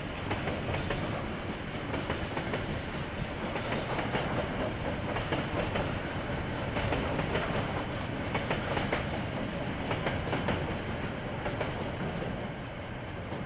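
KiwiRail train wagons rolling past, their wheels clicking over the rail joints in a dense, steady run of clacks. The noise eases off near the end as the train draws away. Picked up by a security camera's microphone, which sounds dull and lacks treble.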